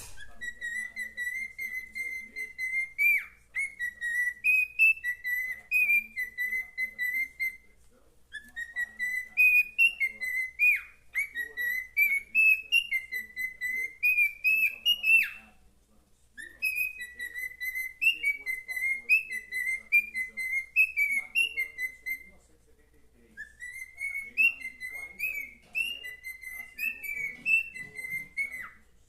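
Cockatiel whistling a learned tune: a melody of short rising and falling notes, whistled in four phrases with short pauses between them.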